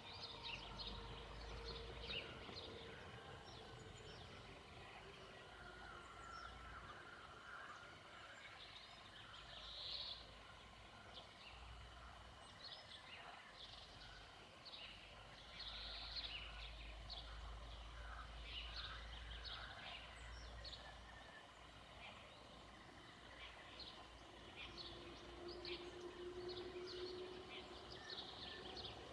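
Faint outdoor birdsong: many short chirps and calls from several birds, scattered throughout, over a low rumble that comes and goes.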